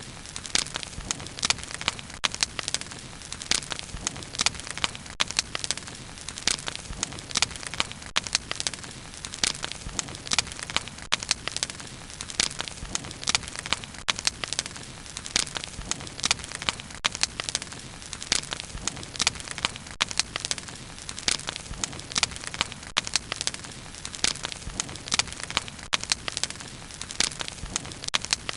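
Bonfire burning, with many sharp, irregular crackles and pops from the wood over a steady low rush of flame.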